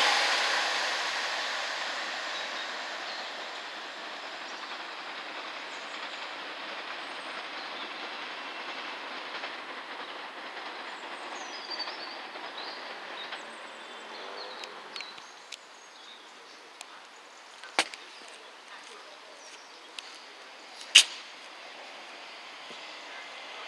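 Gatwick Express Class 387 electric multiple unit running through at speed and fading away as it recedes, its rail noise dying down over the first few seconds into a low steady hiss. Two sharp clicks come near the end.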